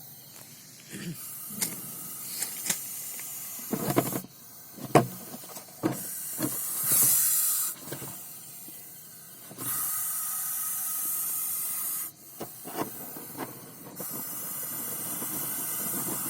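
Russell's viper hissing in long steady blasts, about four of them a few seconds apart. This is the angry, defensive hiss of a threatened snake. A few sharp knocks fall among the hisses about four to six seconds in.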